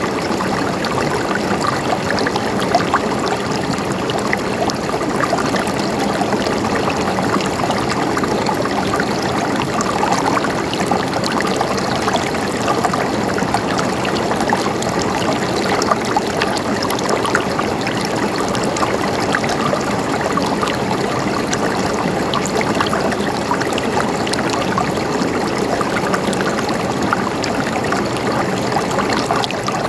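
Stream water flowing and trickling steadily, with a constant bubbling, gurgling rush.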